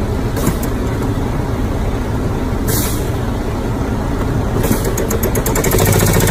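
A heavy vehicle's engine running with steady road noise, a short hiss about three seconds in, and a louder rhythmic engine drone setting in near the end.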